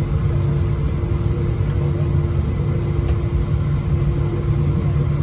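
Airbus A320-231 cabin noise heard from a passenger seat: its IAE V2500 engines and airflow make a steady low drone with a few constant hum tones over it.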